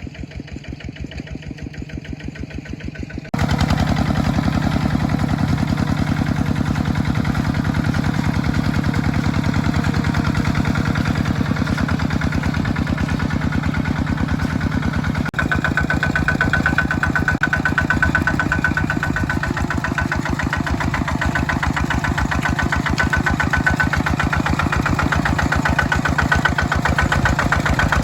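Mini tractor engine running steadily with an even, rapid beat, working in a plowed rice field. It gets suddenly louder about three seconds in.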